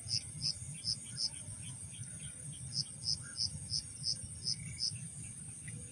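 Night insects: crickets chirping in short, high pulses about three a second, pausing briefly in the middle, over a steady high insect hiss and a low rumble.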